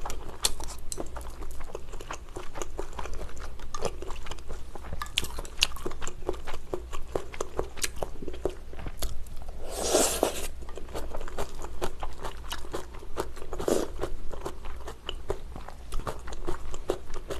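Close-miked chewing of stir-fried wide rice noodles (pad thai), with many small wet clicks and smacks of the mouth. Two louder rushing sounds come about ten and fourteen seconds in.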